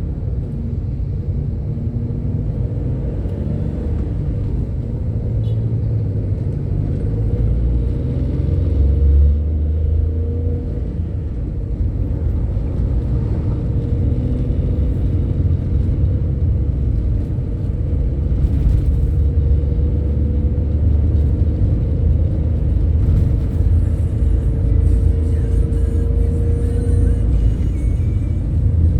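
Bus on the move: a steady low engine and road rumble, with a faint wavering whine above it.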